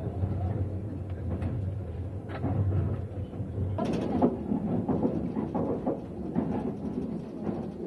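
Passenger train noise: a steady low rumble, joined about four seconds in by busier clattering and knocking.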